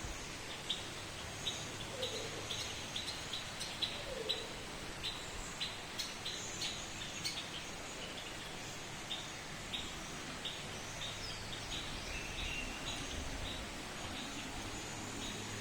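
Birds calling with many short, sharp high chirps repeated irregularly, with a few higher notes and occasional low falling calls in the first few seconds, over a steady background hiss.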